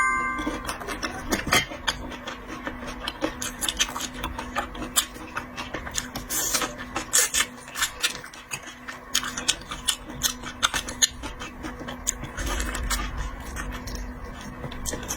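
Close-up mukbang eating sounds: wet chewing and smacking of diced scallop and wakame seaweed salad, an irregular run of many small clicks and squelches, over a faint steady hum.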